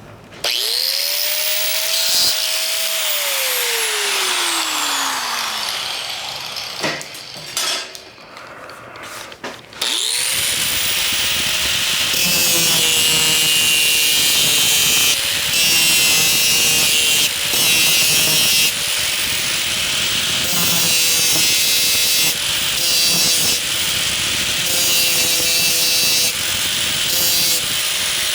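Hand-held power tool with a cut-off wheel, likely an angle grinder, cutting steel plate. It spins up briefly and coasts down with a falling whine; from about ten seconds in it runs steadily with a harsh grinding hiss over the whine as the wheel cuts through the metal.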